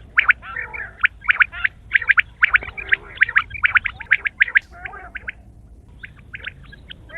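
Quail calling: a rapid series of sharp, repeated notes, several a second, mixed with softer warbling chatter. The calls break off briefly about five and a half seconds in, then start again.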